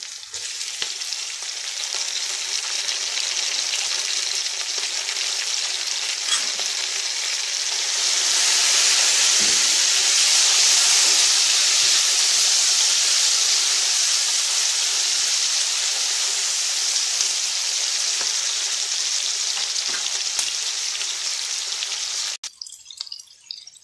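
Sliced onions, garlic, curry leaves and freshly added tomato pieces sizzling in hot oil in a non-stick wok: a steady, loud hiss that swells in the middle and cuts off suddenly near the end.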